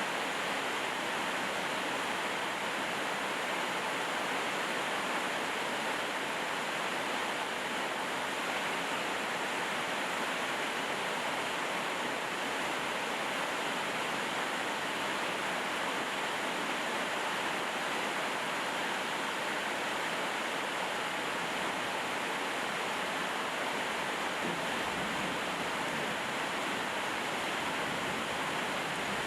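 Steady rainfall, an even hiss that keeps on without breaks or changes.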